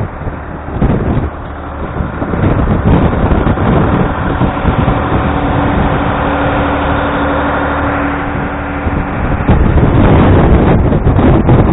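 Blizzard wind buffeting the microphone in loud, rumbling gusts. For a few seconds in the middle a steady low hum shows through the wind.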